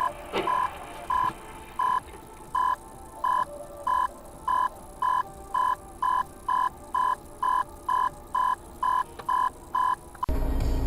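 Electronic beeping: short, identical beeps that come faster and faster, then stop about ten seconds in. Near the end, the steady rumble of a car's interior comes in.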